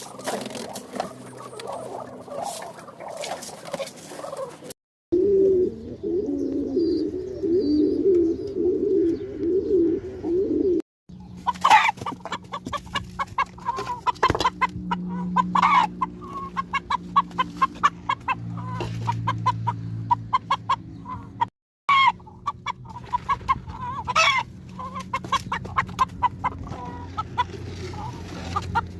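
Domestic chickens clucking, many short calls in quick succession, across a few clips cut together with abrupt breaks.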